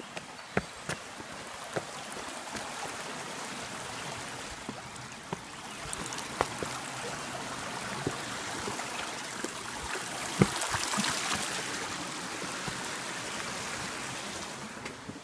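Creek water running steadily, swelling louder about ten seconds in, with scattered clicks and knocks over it.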